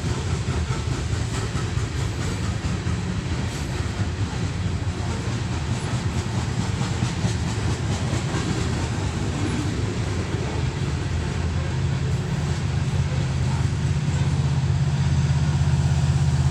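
A loaded coal train rolling past, its wheels clicking and rumbling steadily over the rails. In the last few seconds the low drone of diesel locomotive engines grows louder.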